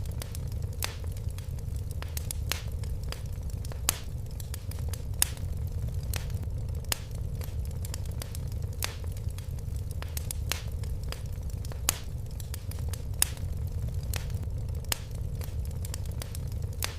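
Fire in a fireplace crackling: irregular sharp pops and snaps over a steady low rumble of the flames, with a few louder pops scattered through.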